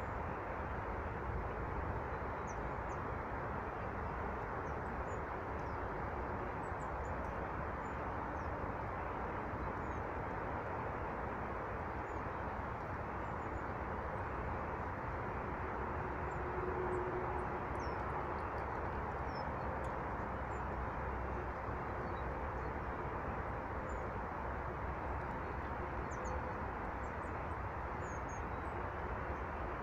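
Small birds at feeders giving scattered faint, short high chirps over a steady rushing background noise.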